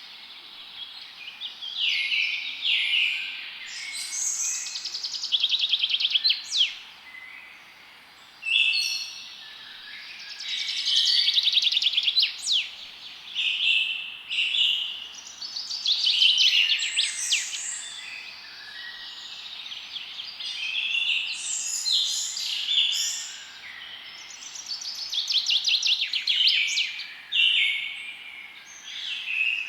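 Songbirds singing in a forest, several overlapping songs of rapid trills and chirps, each phrase a second or two long and coming every few seconds, over a faint steady hiss.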